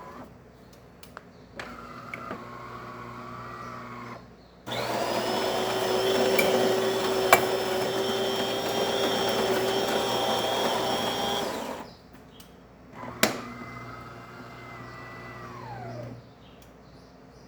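DeLonghi Perfecta bean-to-cup espresso machine working through its shot cycle. A quieter motor hum comes first, then a loud, steady grinding whir that lasts about seven seconds with a sharp click partway through, and then a motor hum that winds down in pitch near the end.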